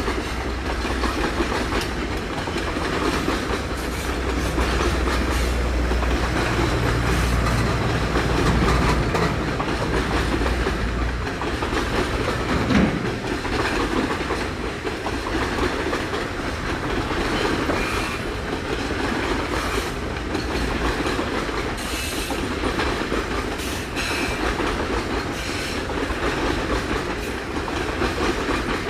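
Loaded freight wagons of a heavy train rolling past, their wheels clattering over rail joints in a steady clickety-clack with a continuous rumble. A single sharper clank stands out about halfway through.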